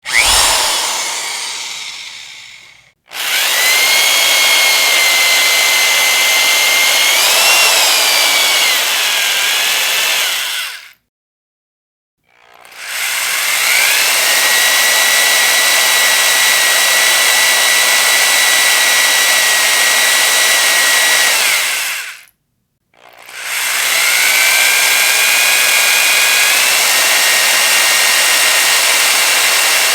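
Electric power drill running. It opens with a short burst that fades away over about three seconds. Then come three long runs of eight to ten seconds each, each spinning up over about a second to a steady high whine and then stopping.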